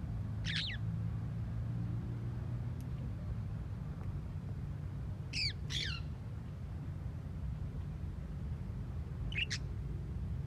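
Parrots in a cage giving short, sharp squawks: one about half a second in, two in quick succession midway, and one near the end. A steady low rumble runs underneath.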